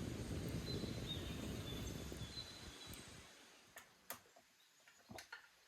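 Wind rumbling on the microphone, fading out after about three seconds, followed by a few faint clicks.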